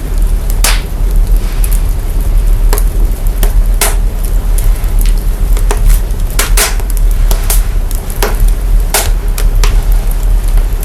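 Fire crackling with irregular sharp pops, over a loud, steady deep-bass rumble that signal processing has brought out of the fire's own sound.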